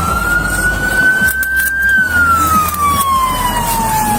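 Police siren wailing: one slow cycle, its pitch rising for about two seconds and then falling for about two, over steady loud noise.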